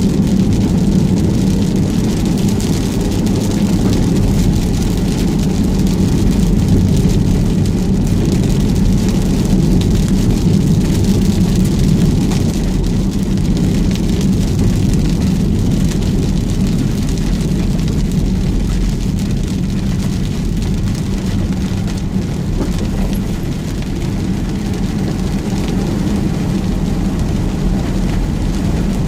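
Heavy rain falling in a strong wind, over a steady low rumble like a vehicle running.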